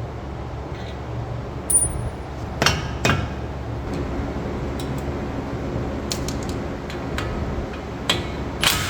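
A handful of sharp metal clanks and knocks from hand tools on the steel parts of a pickup's front suspension, one ringing briefly about two seconds in, over a steady low hum.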